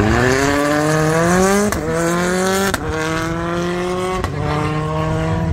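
Rally car engine accelerating hard through the gears: its pitch climbs steadily, then drops sharply at three quick upshifts, the first near two seconds in, each with a short crack at the shift.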